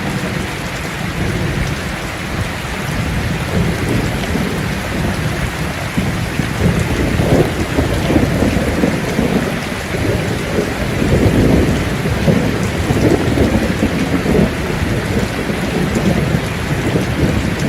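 Steady heavy rainfall, with a low rumble that swells up twice in the middle, a few seconds apart.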